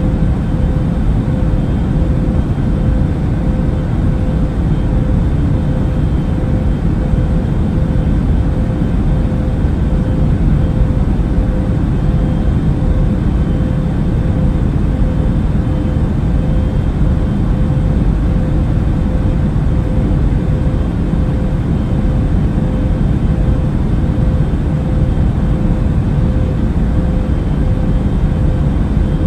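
Airplane cabin noise in flight: a steady, even drone of engines and rushing air, heaviest in the low range, with a faint steady hum held on one middle pitch.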